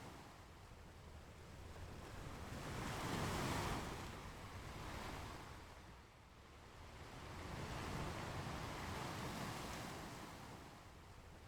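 Ocean surf washing onto a beach. Two waves swell up and ebb away, one about three and a half seconds in and the next about four to five seconds later.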